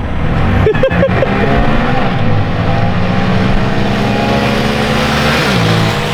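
Vehicle engines accelerating hard from a race start, their pitch climbing steadily. The pitch drops briefly a little before the end, as at a gear change, with a few sharp knocks about a second in.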